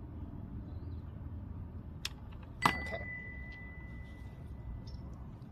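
A small metal object clinks against a hard surface, with a faint click just before it. The clink rings on as one high, clear tone for about two seconds, over a steady low rumble.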